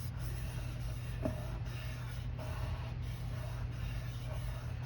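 Watercolor paper being pressed and shifted in wet ink on a craft mat: faint rustling and scraping, with a light tap about a second in, over a steady low hum.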